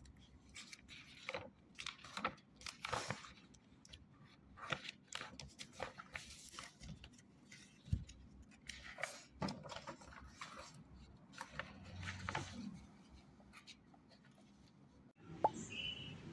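Scattered soft clicks, taps and rustles of small objects being handled in a small room, irregular and without rhythm.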